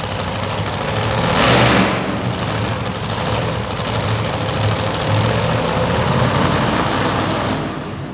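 Super modified two-wheel-drive pulling truck's engine running loud. The sound drops away near the end.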